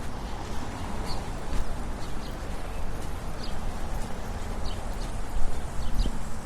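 Small birds chirping in short, scattered high notes over a steady low city rumble of road traffic, with the quick footsteps of a fast walk.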